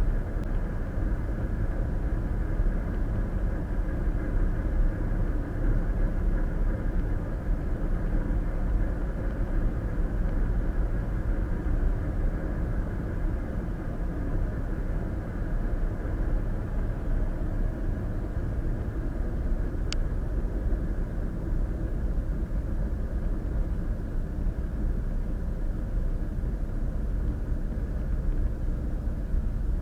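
Steady road and tyre noise of a car cruising on the interstate, heard from inside the cabin through the dash cam's microphone. One brief tick about two-thirds of the way in.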